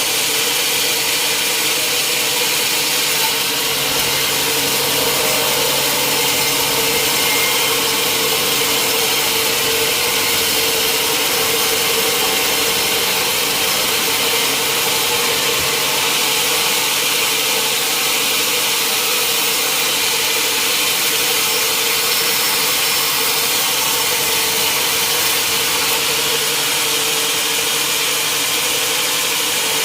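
Sawmill saw running steadily through mahogany, a constant high hiss of cutting over a steady engine hum.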